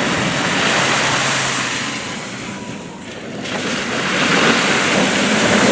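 2016 Toyota Land Cruiser driving through muddy puddles, a rushing wash of splashing water and mud over the engine. It eases off about three seconds in and surges again.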